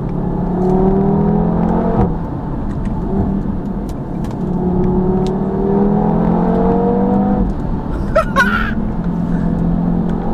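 2017 Audi TT RS's turbocharged five-cylinder engine with sports exhaust accelerating hard. Its note climbs steadily in pitch, drops abruptly at an upshift about two seconds in, climbs again, and drops at another upshift about seven and a half seconds in.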